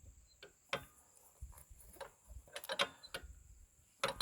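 A handful of light, irregular clicks and knocks of hands working on metal parts.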